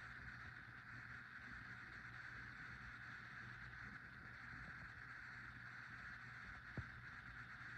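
Faint steady hiss of air from a Kichler Basics Pro Select ceiling fan running quietly, with a low hum under it and one short click near the end.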